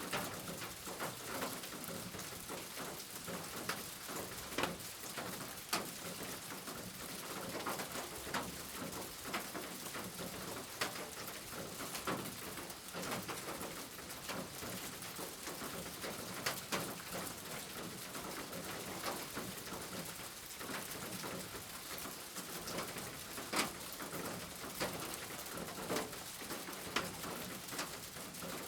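Steady rain falling, an even hiss with frequent distinct drops striking a hard surface close by.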